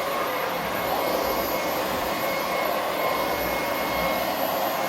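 Womow W20 cordless stick vacuum's 400 W digital motor running steadily: an even rush of air with a thin, high whine.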